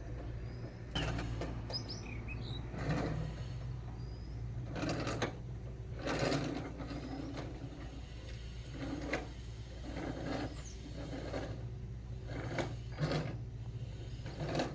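Toy car rattling and whirring in short, irregular bursts, about a dozen of them, over a steady low hum.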